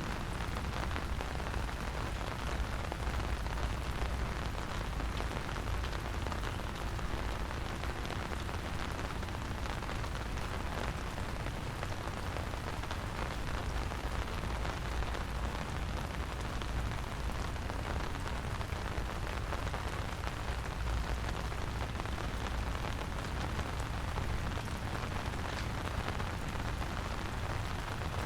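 Steady rain falling, a dense patter of drops with a steady low rumble underneath.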